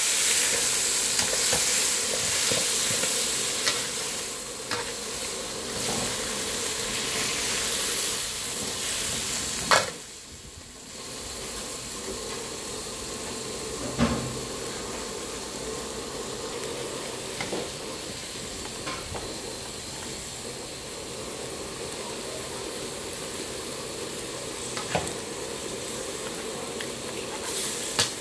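Squid pieces sizzling in a hot steel wok while a spatula stirs them, with occasional sharp knocks and scrapes of the spatula against the wok. The sizzling drops to a quieter level about ten seconds in.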